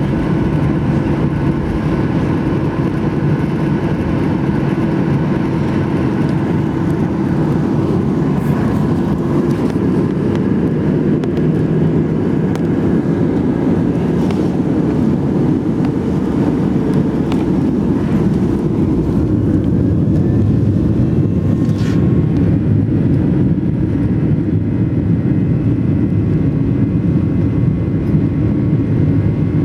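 Steady cabin noise of a Boeing 737-800 airliner, its CFM56 turbofan engines running, heard from a window seat: a loud, even rumble with a few steady whining tones. A faint tone rises about two-thirds of the way through.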